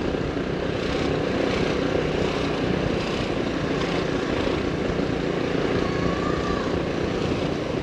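Motorbike engine running steadily while riding, mixed with a constant rush of wind noise on the microphone.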